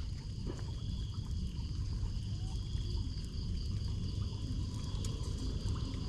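Floodwater pouring into a storm drain, a steady low rush of water. Insects chirr steadily throughout.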